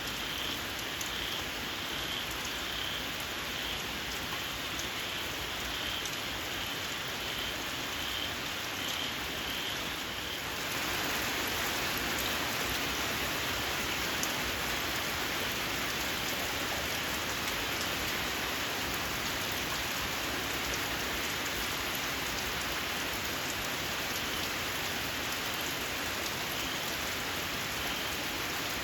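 Steady rain falling, with a small frog giving a regular series of short, high calls, a little more than one a second. About ten seconds in the rain grows heavier and covers the calls, which come back faintly near the end.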